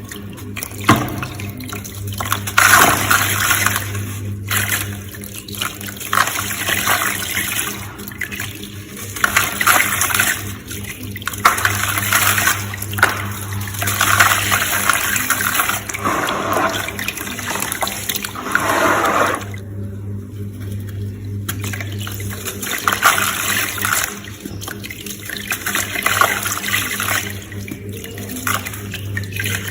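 Gritty sand crumbling into water: uneven bursts of wet crackling, fizzing and splashing, with a brief lull about two-thirds of the way through.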